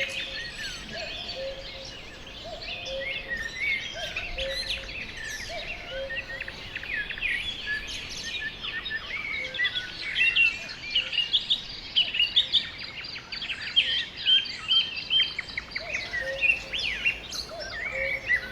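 Spring forest bird chorus: many songbirds chirping and trilling over one another, with sharper, louder chirps from about ten seconds in. A low two-note call repeats about once a second near the start and again near the end.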